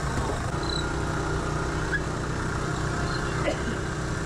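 Busy market ambience: background chatter from many people over a steady low engine hum, such as a vehicle idling or passing nearby.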